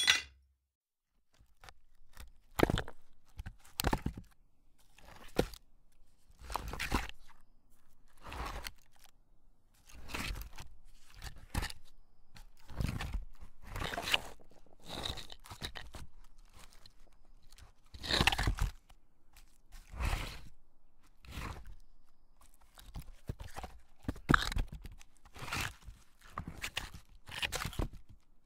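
A long run of irregular crunching and scraping strikes, one or two a second, some much louder than others, starting about a second and a half in after a sharp hit at the very start.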